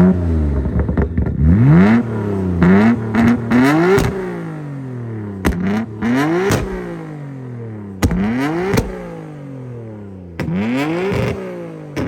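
Tuned performance car engine blipped hard about half a dozen times, each rev climbing and then falling back. Sharp exhaust bangs follow most of the revs as it shoots flames on the overrun.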